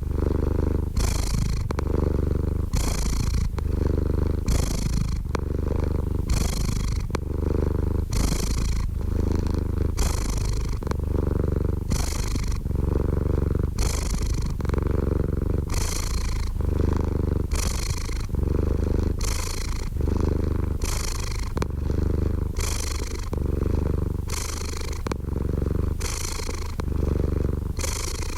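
Domestic cat purring steadily, swelling and easing with each breath about once a second.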